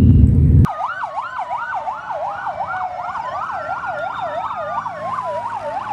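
Toy fire truck's electronic siren: a fast wail sweeping up and down about three to four times a second, with a slower rising-and-falling tone over it. It starts abruptly under a second in, as a low rumble cuts off.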